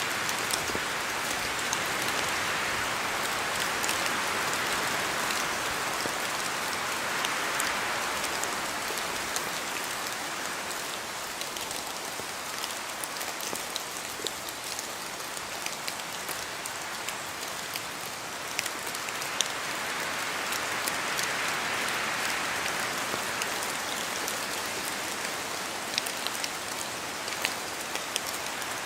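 Steady rain falling in a forest, a continuous hiss with many separate heavy drops ticking as they fall from the trees. The hiss swells twice with the wind through the trees, once in the first third and again about two-thirds through.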